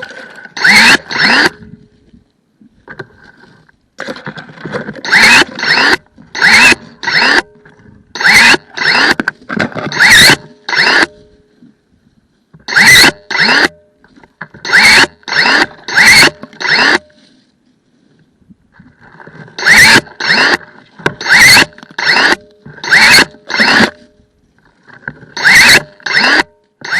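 Cordless 18V electric pruning shears snipping branches and undergrowth: a string of short motor whirs, each one a close of the blade. The snips come in quick clusters of two to five with short pauses between.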